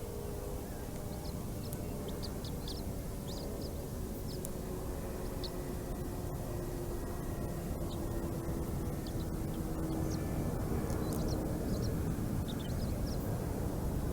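Steady low wind rumble on an outdoor nest-cam microphone with a faint, slowly falling hum beneath it. Scattered short, high bird chirps come and go throughout.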